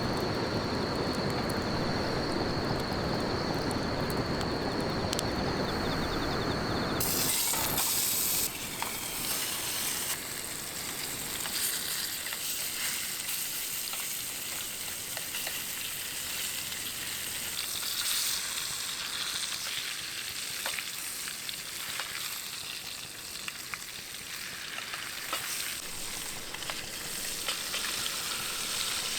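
Food sizzling and frying in a mestin, an aluminium mess tin, set over a campfire: a steady hiss with small crackles and pops. For the first several seconds a dense, steady rushing noise covers it, and it then switches abruptly to the clear sizzle.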